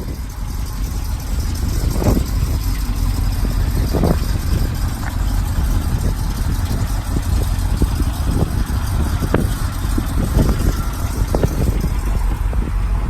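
1964 Chevrolet Corvette's 327 V8 running steadily at a low, even speed, with a few short knocks or pops over it.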